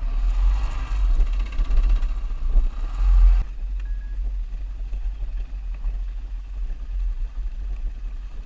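Motorcycle riding with wind rumbling on the microphone. The engine and road sound cuts off abruptly about three and a half seconds in, leaving a steady low rumble.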